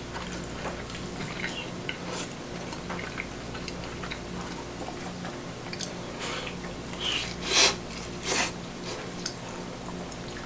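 Food preparation in a kitchen: small clicks and taps of utensils and dishes being handled, with two louder clattering or splashing sounds about seven and a half and eight and a half seconds in, over a low steady hum.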